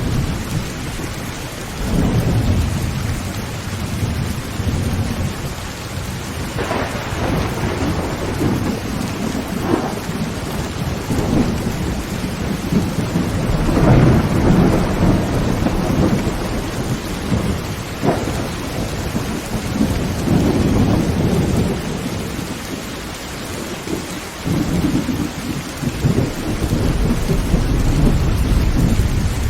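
Heavy rain drumming steadily on a tin tent roof, with rolls of thunder rumbling again and again, the longest building up near the end.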